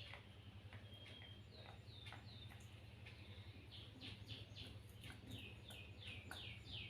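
A small bird chirping: a series of short, high chirps, each falling in pitch, coming faster, about two a second, in the second half, over a faint low steady hum.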